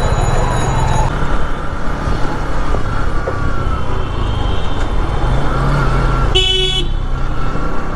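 Dense city road traffic heard from a moving motorcycle: a steady low rumble of engines and road noise, with one short, loud vehicle horn blast about six and a half seconds in.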